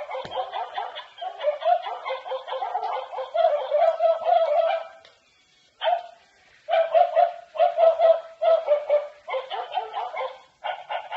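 Electronic dog sounds from an interactive toy Jack Russell terrier's small speaker. A continuous stretch of dog noises runs for about five seconds, then after a short pause come about eight short barks, roughly one every 0.7 seconds.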